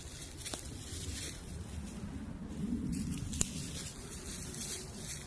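Footsteps on the forest floor, irregular crunching and rustling of leaf litter underfoot, with one sharp click about three and a half seconds in.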